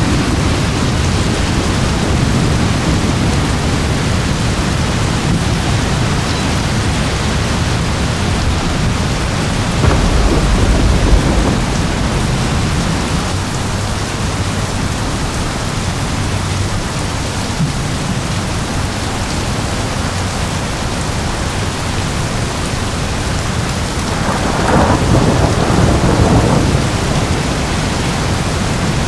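Steady heavy rain with rolling thunder. The thunder swells about a third of the way in and again, louder, near the end.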